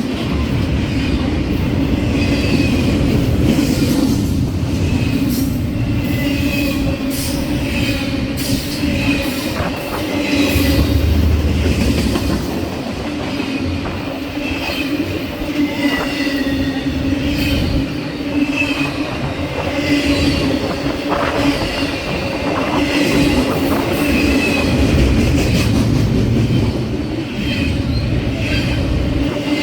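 Freight train's cars rolling steadily past, loud, with wheels clicking over rail joints and short high squeals from the wheels throughout.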